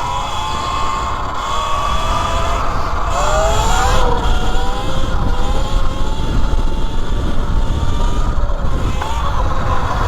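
E Ride Pro SS 3.0 electric dirt bike's motor whining as it rides, its pitch rising and falling with speed, with a dip and a quick climb about three to four seconds in. Underneath runs a steady low rush of noise.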